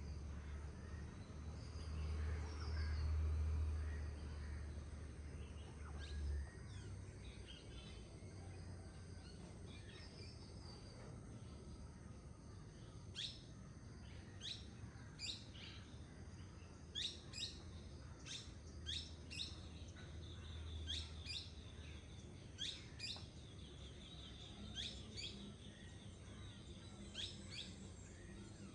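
Forest birds singing and calling, with a run of short, sharp, high downward-sweeping notes repeated many times through the second half. A low rumble sits under the first few seconds.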